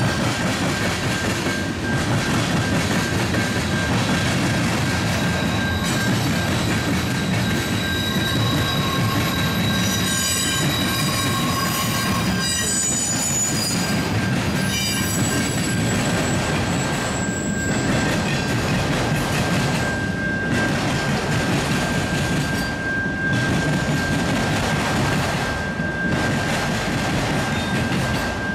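Freight cars rolling past, wheels rumbling steadily on the rails with a thin, steady wheel squeal throughout. Between about ten and fifteen seconds in, shriller squealing rises over it.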